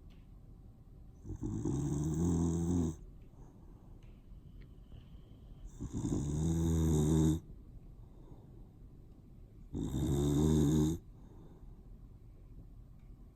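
Boxer dog snoring loudly: three long snores, each one to one and a half seconds, about four seconds apart.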